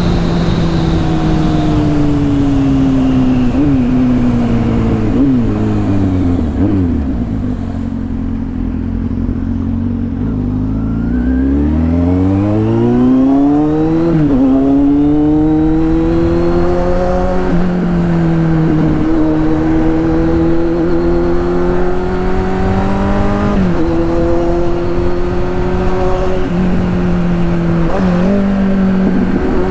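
Kawasaki Z800 inline-four with a straight-through exhaust, ridden: the engine note winds down for several seconds with quick throttle blips, then climbs steeply as it accelerates and runs on at a steady pitch, broken by brief dips at gear changes.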